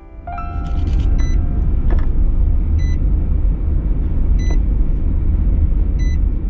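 Loud, steady low rumble of a vehicle running, with a short high beep repeating about every one and a half seconds.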